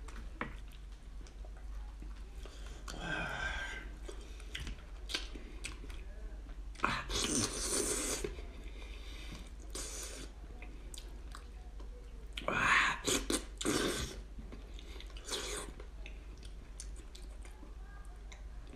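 Close-miked eating sounds of a man chewing cooked sheep's-head meat, with small clicks and a few louder bursts about 3, 7 and 13 seconds in.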